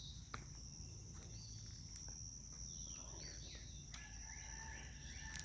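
Faint outdoor ambience: a steady high-pitched insect trill runs throughout, with a few faint bird chirps and a low background rumble.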